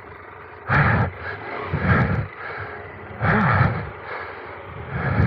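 Adventure motorcycle engine revved in four short bursts, each rising and falling in pitch, as the bike is worked up a steep trail after losing momentum.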